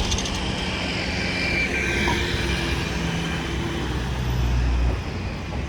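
A large motor vehicle running close by in city traffic, its low engine hum steady and then dropping away about five seconds in.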